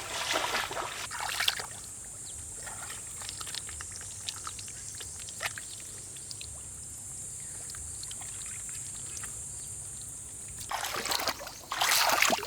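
Water sloshing and splashing, with bursts in the first second and a half and a louder burst near the end. Between them are faint scattered ticks under a steady high-pitched hiss, which stops near the end.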